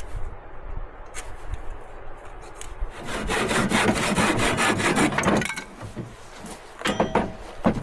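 Wood being sawn by hand: a run of rapid saw strokes from about three seconds in until past five seconds, followed by a few sharp knocks near the end.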